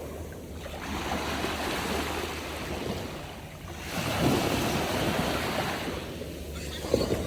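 Wind buffeting the microphone over rushing water, swelling and easing a couple of times, with a steady low hum underneath.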